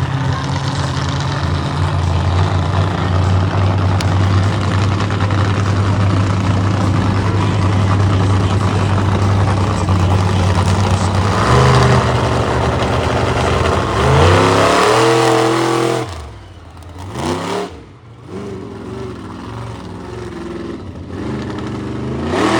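Monster truck engine running loud and steady, then revving with its pitch climbing in repeated surges. It falls away sharply about three quarters of the way through, leaving a quieter engine note that rises and falls.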